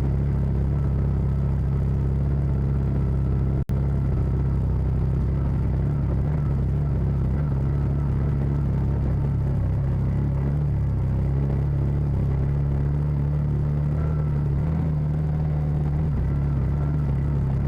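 CFMoto side-by-side's engine running steadily under load while climbing a steep trail, a constant low drone. The sound drops out for an instant about four seconds in.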